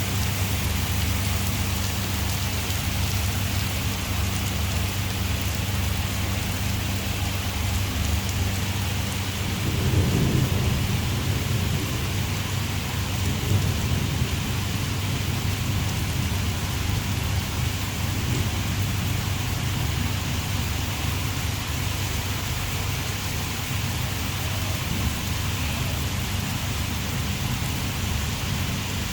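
Heavy rain pouring steadily. A low hum runs under it for the first ten seconds, and a deep rumble swells about ten seconds in, with a smaller one a few seconds later.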